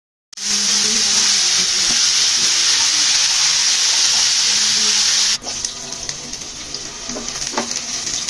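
Loud, steady sizzle of turmeric-coated vegetable pieces frying in hot oil in a pan. About five seconds in it cuts to a quieter sizzle of sliced onions frying, stirred with a spatula that knocks the pan a couple of times near the end.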